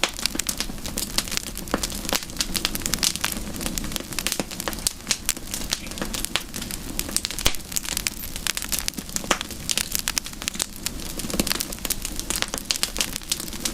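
Wood campfire burning, with dense irregular crackles and pops over a steady low rumble of the flames.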